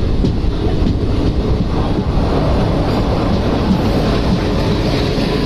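Steady rumble of an Indian Railways passenger express train running, heard from on board one of its coaches.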